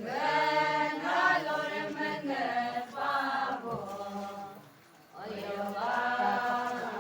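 A group of voices chanting a sung refrain together, in long held phrases, breaking off briefly about two-thirds of the way through before the chant resumes.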